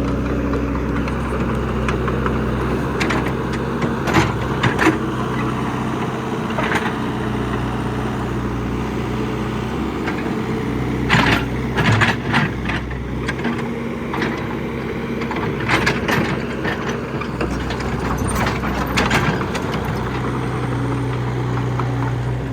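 Komatsu excavator's diesel engine running steadily, with sharp knocks and scrapes now and then, several bunched together near the middle.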